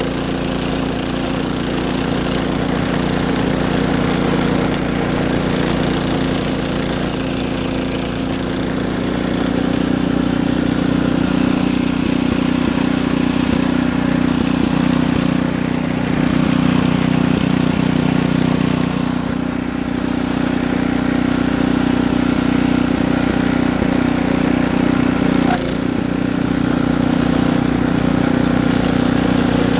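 Snowblower engine running steadily at working speed, louder from about nine seconds in.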